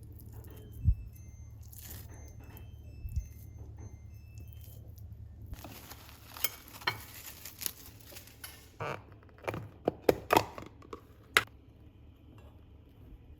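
Kitchen food-prep sounds: dishes and utensils clinking and knocking, with a stretch of hiss a little before the middle and a quick run of sharp clinks later on, over a steady low hum.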